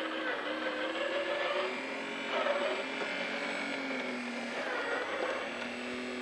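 Small electric motor and gearbox of a radio-control scale truck whining as it drives, the pitch rising and falling with the throttle.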